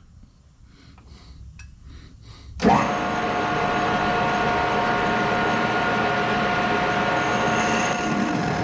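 A machine tool starts abruptly about two and a half seconds in and then runs steadily with a steady whine. The machine is being run to drill a half-20 tap-drill hole in a small metal part.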